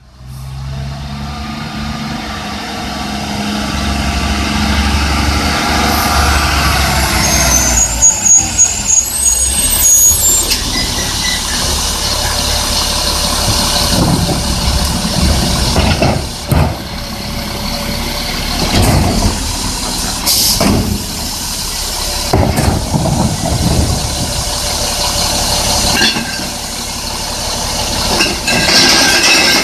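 Garbage truck engine running, with its pitch falling over the first several seconds. A high squeal follows about 8 to 10 seconds in, then several short bursts of hissing or banging.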